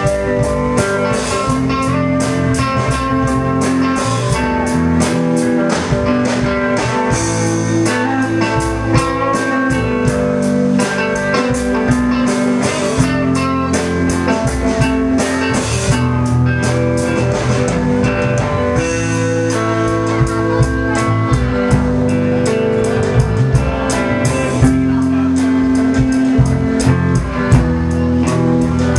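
Live blues-rock band playing an instrumental passage: electric guitar over bass and drum kit, with a steady beat.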